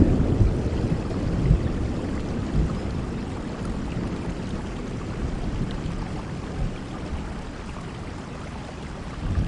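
Steady rain with a low rumble of thunder dying away over the first few seconds, and a faint new rumble starting near the end.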